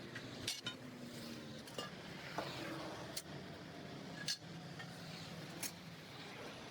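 Sharp metallic clinks and knocks, about six of them at irregular intervals, over a steady background hum.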